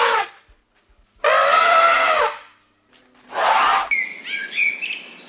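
Loud, harsh animal calls: one about a second long, then a shorter one, followed by faint high bird chirps.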